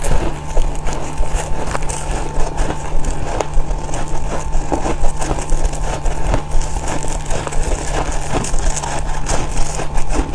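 Freezer frost being bitten and chewed: a dense, irregular run of crunching and crackling.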